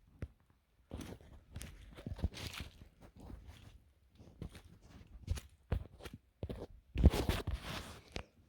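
Footsteps of people hiking along a trail: an uneven run of steps with a short pause in the middle, loudest about seven seconds in.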